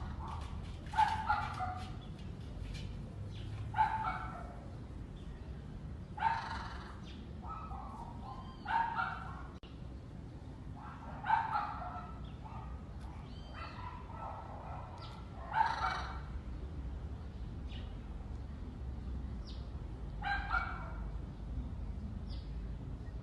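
Repeated short animal calls, about one every two to three seconds, over a steady low background noise.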